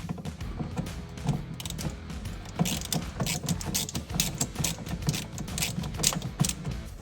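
Ratchet wrench clicking in quick runs of strokes, removing a bolt, with the clicking densest in the second half.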